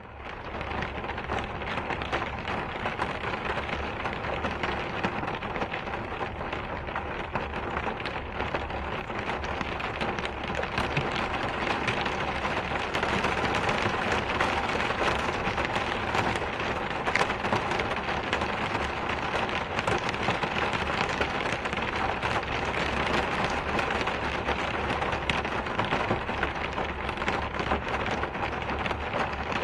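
Steady rain falling, a dense even hiss with many individual drops pattering on a surface; it fades in at the start and grows a little heavier about twelve seconds in.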